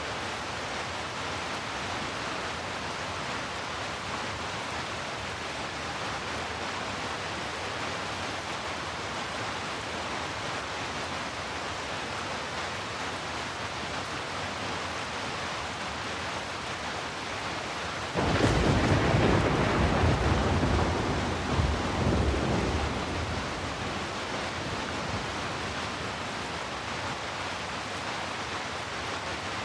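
Heavy rain falling steadily. About two-thirds of the way through, a sudden loud rumble of thunder breaks in, rolls in a few swells for about five seconds and fades back under the rain.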